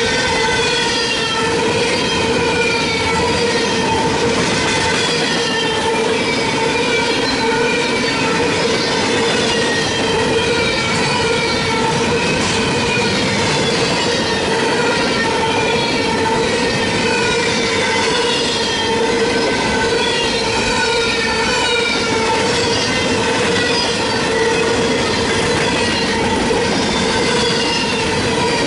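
A Norfolk Southern freight train's cars rolling past, the wheels holding a steady squeal with many short falling squeaks above the rumble of wheels on rail.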